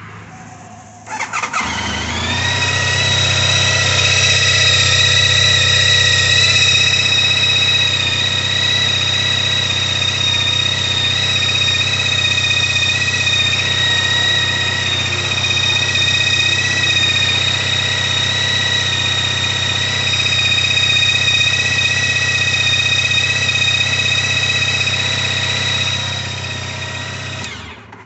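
Honda ST1300's V4 engine cranked on the starter and catching about a second in, then idling with a steady high-pitched squeal over the engine note, rising slightly in pitch as it settles. The engine stops near the end.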